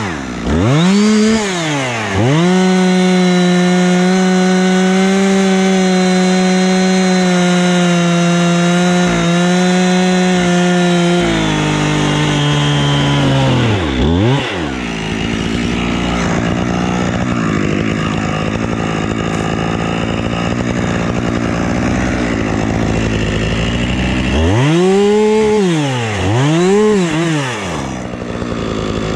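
Husqvarna two-stroke chainsaw blipped twice, then held at full throttle for about nine seconds, its pitch sagging slightly as it cuts through wood. It then drops back to idle, with two more quick revs near the end.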